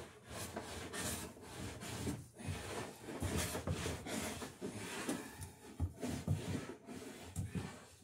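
A hand beading tool scraping along a wooden boat rail in repeated strokes, cutting a decorative bead into the rail's edge.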